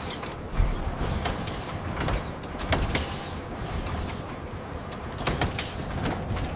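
Industrial machinery running: a steady mechanical noise with irregular knocks and clanks.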